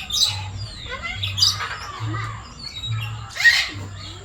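Many caged birds in an aviary chirping and calling over one another, with harsh squawks about a second and a half in and, loudest, near the end. A low hum pulses on and off underneath, roughly once a second.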